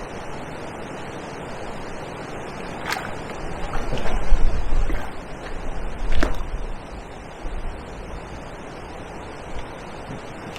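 Steady rush of wind and choppy water, with gusty low rumbles about four and six seconds in and two sharp clicks near three and six seconds.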